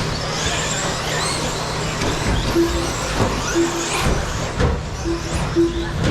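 Electric 1/10-scale 2wd stadium trucks running warm-up laps, their motors whining up and down in pitch, with knocks from landings and bumps. From about two and a half seconds in come short beeps, five times, from the lap-timing system as trucks cross the line.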